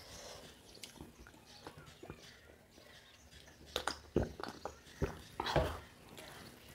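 Close-up mouth sounds of eating by hand: chewing and lip smacks over rice, saag and roti. A few louder, sharp smacks and clicks come between about four and six seconds in.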